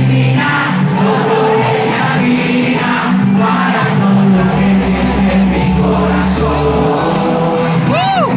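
Live reggaeton concert music over a stadium sound system, with a steady bass line, singing and crowd shouts. A quick up-and-down swooping tone sounds near the end.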